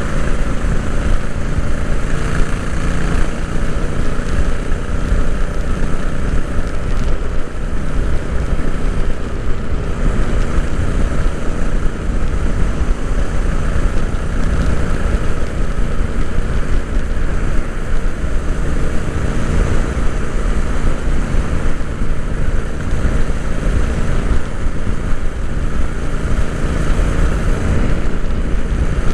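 Royal Enfield Interceptor 650's 648 cc parallel-twin engine running steadily while the motorcycle is ridden, heard from onboard with wind rush on the microphone.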